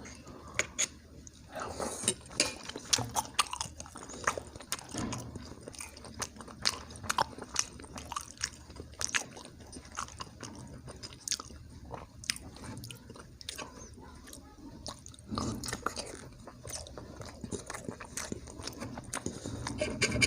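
A person chewing and biting a mouthful of cheesy pasta and eggs, with a steady run of short, irregular wet smacking clicks.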